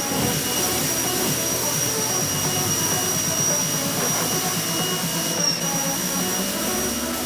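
A steady whirring motor with a high, even whine, its pitch rising near the end.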